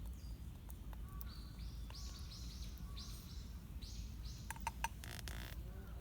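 A small songbird calling a quick run of about eight repeated, falling high chirps, followed near the end by a few sharp clicks and a brief rustle, over a steady low outdoor rumble.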